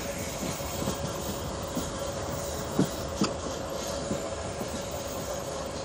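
Moving passenger train heard from a coach window: a steady rumble of wheels on the rails with a steady high hum. About three seconds in come two sharp clacks less than half a second apart, as the wheels cross a rail joint.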